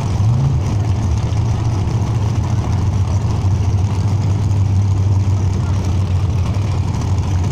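Drag-racing engine idling with a steady low rumble, blipped briefly just after the start, over background chatter.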